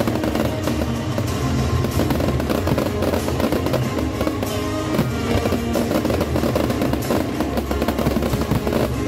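Aerial fireworks going off in quick, dense succession, with music playing through the bangs.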